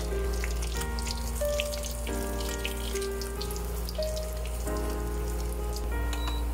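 Panko-breaded pork cutlets sizzling and crackling in shallow oil in a frying pan, with many small spatters, under light background music.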